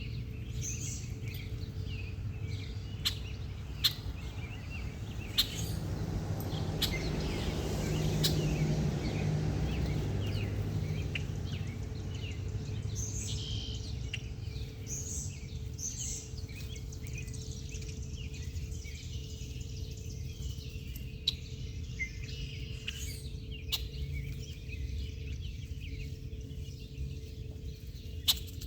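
Small birds chirping and calling outdoors, with a few sharp ticks in between. A low rumble swells and fades away between about six and eleven seconds in.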